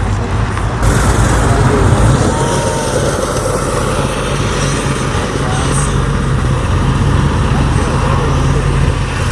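A car engine running steadily, with people talking in the background.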